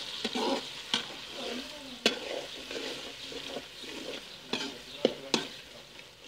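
Onion, tomato and chilli masala frying in ghee in a metal kadai, sizzling as a metal ladle stirs it. The ladle clinks sharply against the pan about five times.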